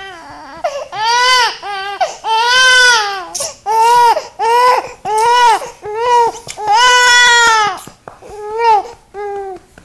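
Infant crying: a run of about a dozen loud wails, each rising and falling in pitch, mostly short with a longer wail about two-thirds of the way in.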